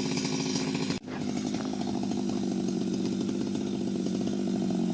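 Two-stroke chainsaw running at high speed, a steady engine note, with a sudden brief break about a second in before it carries on.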